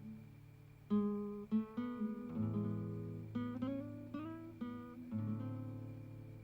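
Background music: an acoustic guitar playing slow plucked and strummed phrases, with a low sustained bass note under them.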